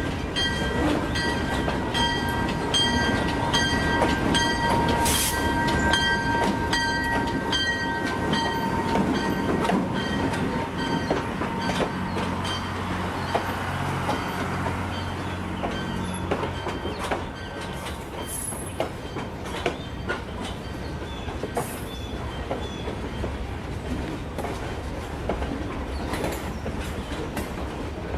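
Freight train cars rolling past with a regular clicking of wheels over rail joints. A steady high whine fades out about ten seconds in, and a low hum rises in the middle.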